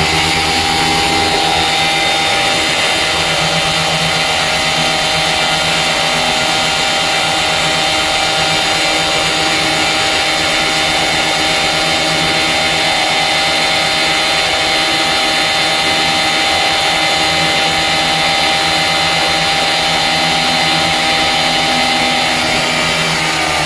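Vittorazi ATOM 80 78cc two-stroke paramotor engine with a tuned expansion-chamber exhaust, held steady at full throttle at about 9,400 rpm while hot, then dropping in pitch as it is throttled back right at the end. This is a static full-power test of the lengthened pipe.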